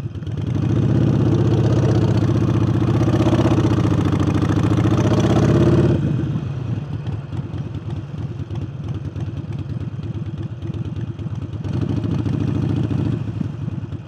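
Harley-Davidson Forty-Eight's air-cooled V-twin, fitted with a new aftermarket air intake, pulling hard under throttle for about five seconds, then easing off. It opens up again briefly near the end.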